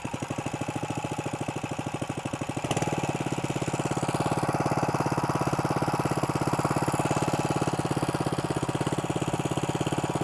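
Small single-cylinder engine of a Harbor Freight clean-water pump running just after being pull-started, with an even rapid pulse. About three seconds in it picks up speed and runs fuller as the pump draws water.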